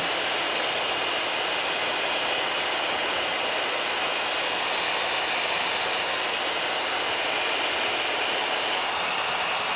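Steady cabin drone of a Mooney M20K's turbocharged six-cylinder Continental engine and propeller in cruise descent, an even rushing noise with a faint steady whine on top.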